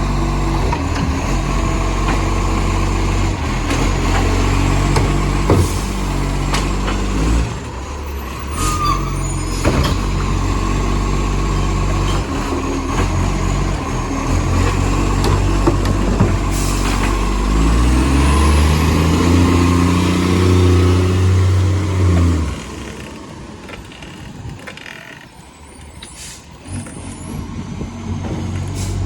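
Garbage truck's diesel engine running with a massive exhaust leak that gives it a deep, loud note. About two thirds of the way in it revs up and back down, then falls much quieter for a few seconds. Several short hisses break in along the way.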